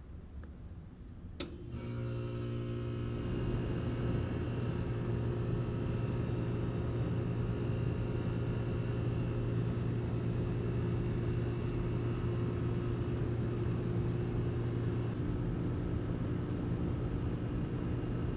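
Outdoor central air conditioner condensing unit running steadily, a compressor hum with a strong low tone under the whoosh of the condenser fan. A sharp click comes about a second in, just before the hum fills in.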